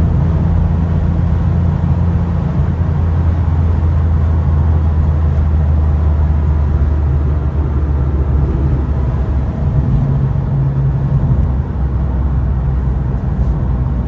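Porsche 911 Carrera 3.2's air-cooled flat-six engine running with a steady note, which shifts slightly about ten seconds in.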